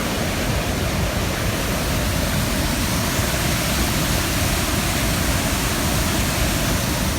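Waterfall rushing close by: a loud, steady, unbroken noise of falling water.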